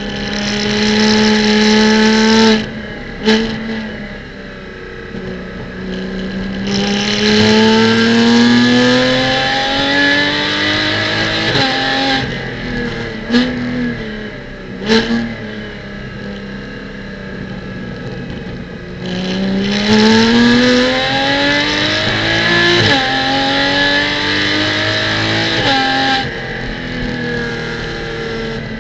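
Porsche Cayman GT4 Clubsport's flat-six engine heard from inside the car, pulling hard with the pitch climbing twice in long runs. Between the runs it drops back sharply in a few quick steps with short sharp clicks, as the car downshifts into corners.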